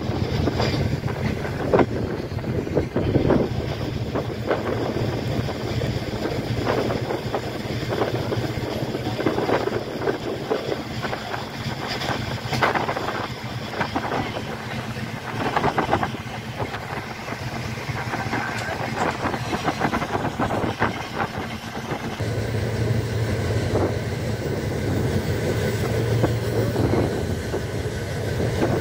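Saraighat Express passenger train running at speed, heard from a carriage window: a steady rumble and rush of air with irregular clicks and knocks from the wheels over the rails. The low rumble grows fuller about three-quarters of the way through.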